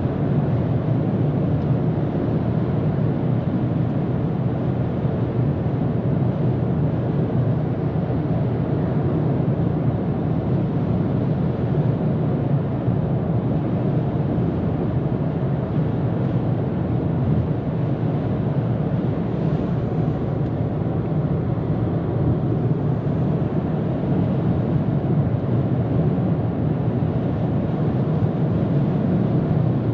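2022 Ford Maverick XLT FX4 pickup cruising at steady highway speed: a constant low rumble of tyres on the road mixed with wind noise, unchanging throughout.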